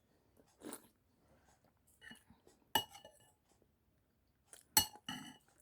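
Spoon clinking against a dish while eating soup: a few light clinks, the two sharpest about two seconds apart, each with a brief ring.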